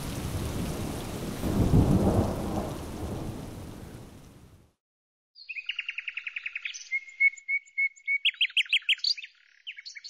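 Rain falling with a rumble of thunder that swells about two seconds in, then fades away. After a moment of silence a bird sings rapid trills, a held whistled note and sharp chirps.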